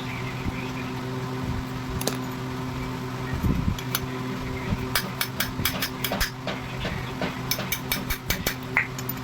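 Quick runs of sharp hammer strikes on metal, about five a second, starting about halfway through, with a short pause between two runs. This is the kind of tapping used to drive exhaust valve guides into or out of a cylinder head. A shop machine hums steadily underneath.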